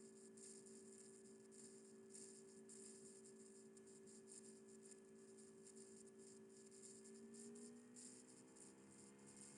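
Near silence: a faint steady hum made of several tones, which glide up in pitch about eight seconds in, over a faint flickering hiss.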